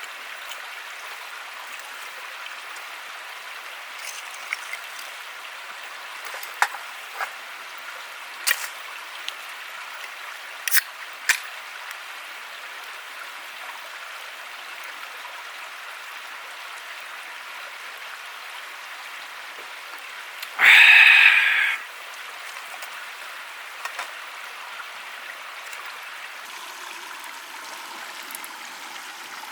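Steady outdoor rushing hiss, like flowing water, with scattered sharp clicks and one loud rustling burst lasting about a second, roughly two-thirds of the way through.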